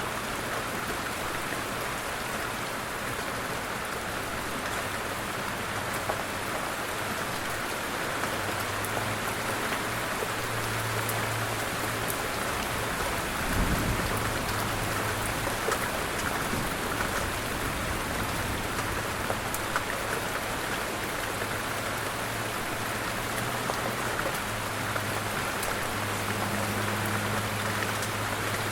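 Light rain falling steadily, with the patter of individual drops on surfaces. A low hum comes and goes underneath, and a single low thump sounds about halfway through.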